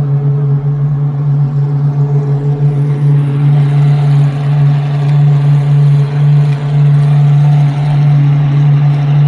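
Pagani Huayra R's naturally aspirated V12 idling steadily, a deep, even note that holds without revs.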